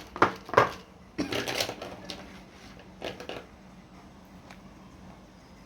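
Light knocks and clicks of small objects being handled, with a short stretch of scratchy rustling about a second in.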